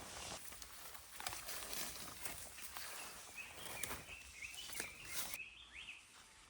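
Footsteps crackling irregularly over dry leaves and twigs on a forest floor. From about the middle, a small bird chirps a quick string of short notes.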